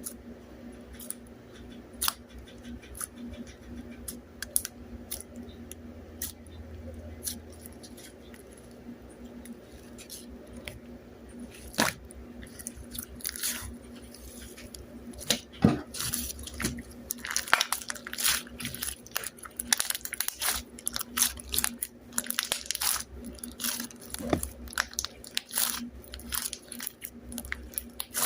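Crisp crunching and clicking, as of something biting and chewing crunchy food: sparse at first, then denser and louder from about halfway in, over a steady low hum.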